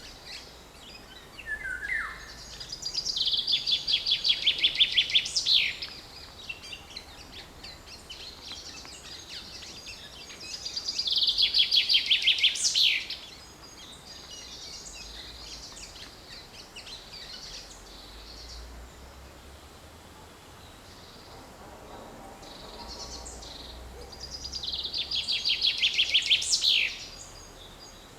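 Common chaffinch singing three song phrases, each a fast run of repeated notes that ends in a sharp falling flourish, with faint calls of other birds between them.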